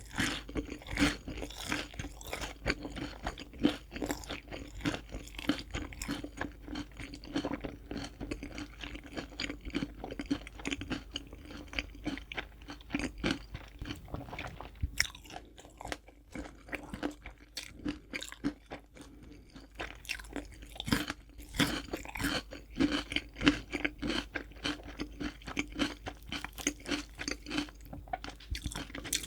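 Close-miked chewing and crunching of crispy fried chicken: rapid, irregular crisp crunches of the fried coating between the teeth, thinning out for a few seconds in the middle.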